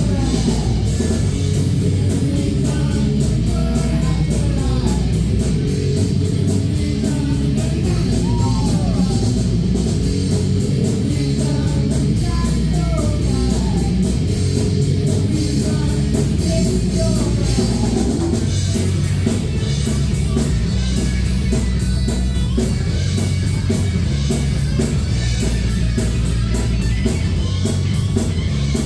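A live rock band playing a song, with electric guitar, drum kit and singing.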